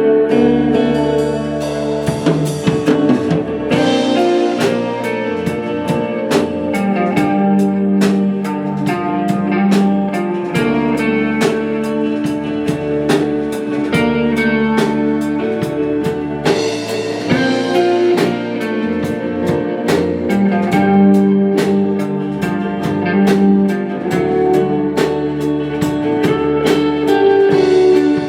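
A live rock band playing an instrumental passage: guitars over a drum kit keeping a steady beat.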